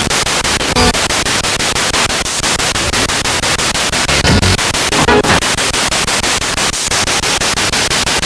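Spirit box radio sweeping through stations: a steady hiss of static chopped by rapid, evenly spaced clicks, with brief fragments of broadcast voice breaking through about a second in and again around four to five seconds in.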